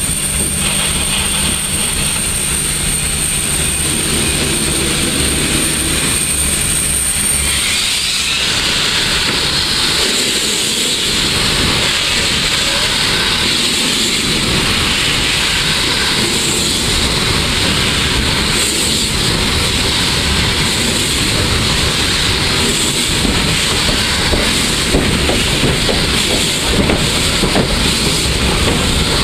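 Footplate sound of PKP Ol49 steam locomotive Ol49-59 under way, heard from the cab. A steady hum gives way about eight seconds in to a loud, continuous steam hiss, with the locomotive's working and the clatter of wheels on the rails underneath.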